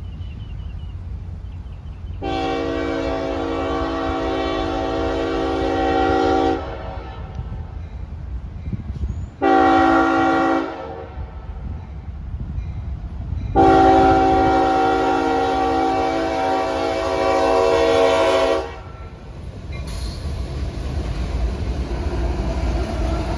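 Nathan Airchime K5HLB five-chime horn on a CSX diesel locomotive blowing three blasts: long, short, long. The train's low rumble runs underneath and grows louder near the end as the train draws near.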